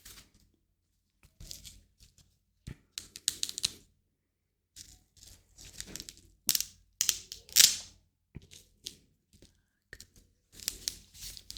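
Hands rubbing and rustling in short, separate bursts with brief silences between them, and a sharp snap a little under three seconds in.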